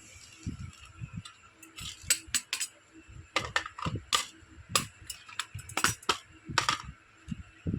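Small miniature toy kitchen pieces clicking and clinking as they are handled and set down: an uneven string of sharp taps with softer low knocks between them.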